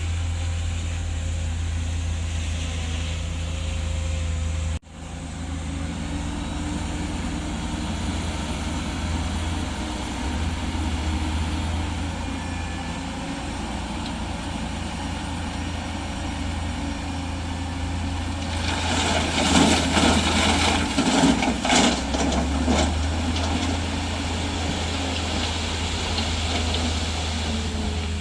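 Heavy diesel earthmoving machinery running steadily at a low hum, with a brief sudden break about five seconds in. Past the middle comes a few seconds of louder clattering and rattling noise, then the steady engine again.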